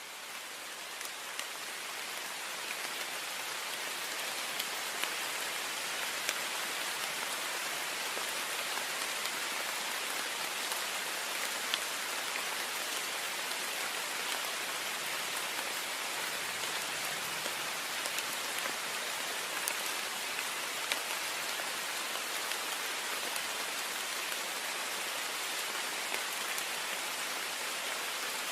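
Heavy rain falling on a window: a steady hiss of rain with scattered sharp drop taps, fading in over the first few seconds and then holding steady.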